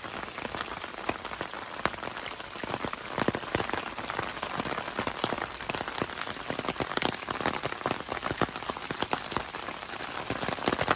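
Steady rain falling, with many sharp, irregular ticks of individual drops striking.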